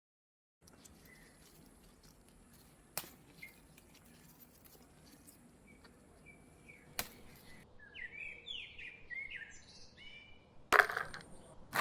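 Small birds chirping, with a quick run of calls in the second half, over faint outdoor background. A few sharp clicks sound along the way, the loudest about a second before the end.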